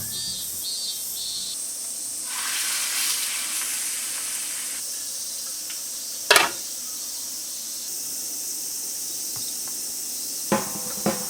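Food frying in oil in a pan: a steady sizzle that grows louder for a couple of seconds, then settles. A sharp clink about six seconds in and a few light knocks near the end.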